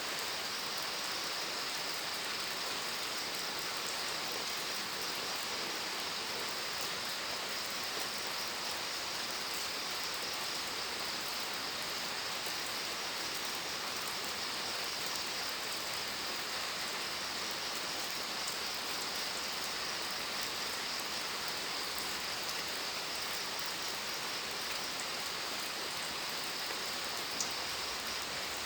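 Steady rain falling, an even hiss that does not let up, with one short click near the end.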